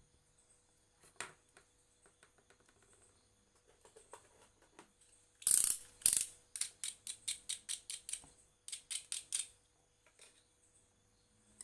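Mechanical clicking from hand work on a mechanism: light scattered ticks, then two loud rasping clicks about halfway through, followed by two runs of quick, even clicks at about six a second.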